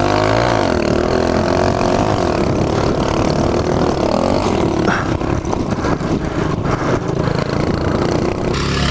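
Small mini bike engine running hard under way, its pitch climbing at first, then dipping and picking up again as the throttle comes off and back on, with a few knocks and rattles.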